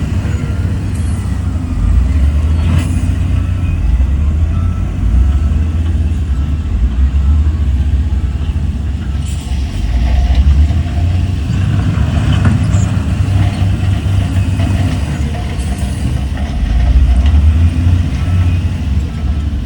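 Heavy diesel engine of earthmoving machinery running with a deep, steady rumble, with a few faint clicks and knocks over it.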